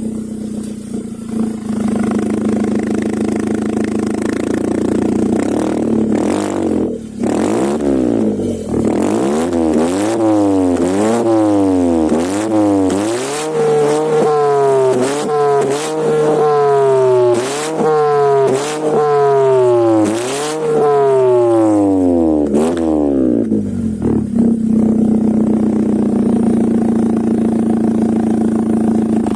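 Ford Fiesta 1.5S exhaust, fitted with a slip-on Akrapovic muffler and a spiral resonator: idling, then revved up and let fall back about a dozen times in quick succession, then settling back to idle.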